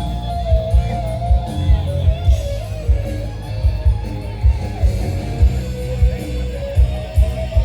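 Loud rock music: a held, wavering electric guitar lead over bass and a steady drum beat.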